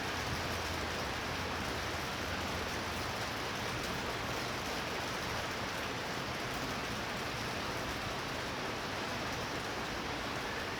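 Heavy rain falling steadily, a constant hiss with no break.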